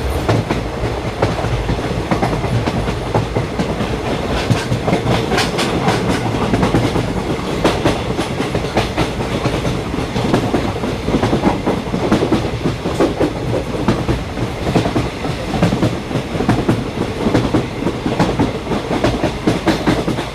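Vande Bharat Express train running steadily, its wheels clattering over the rail joints in a continuous stream of rapid clicks over a dense rumble of rail noise.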